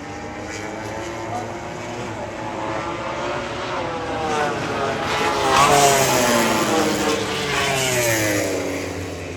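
MotoGP race motorcycle passing at speed: the engine note climbs as it approaches, is loudest about six seconds in, then drops in pitch as it goes by.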